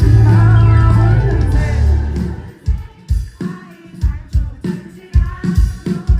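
Live pop-rock band with a singer's voice, amplified at an outdoor concert. After about two and a half seconds the full sound drops back to a pulsing kick-drum beat with lighter accompaniment.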